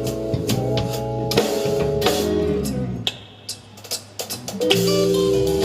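Band music with no vocals: guitar chords over a drum kit. It drops almost out about three seconds in and comes back in full about a second and a half later.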